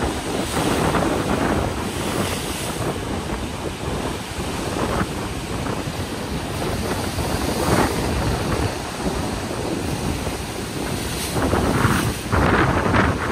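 Sea waves breaking and washing on the shore, with strong wind buffeting the microphone. The surf swells up about eight seconds in and again near the end.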